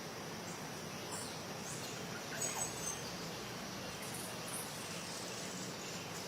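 A few brief, high-pitched bird chirps about two and a half seconds in, over a steady background hiss.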